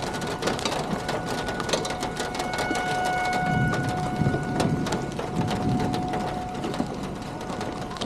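Steady rain falling and pattering, with low rumbling swells in the middle and a faint steady high tone through the first part.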